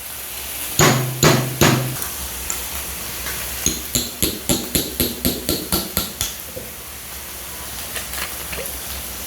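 Sharp knocks and taps: three heavy knocks about a second in, then a quicker run of about a dozen sharp taps in the middle, over faint sizzling of pork belly on the grill.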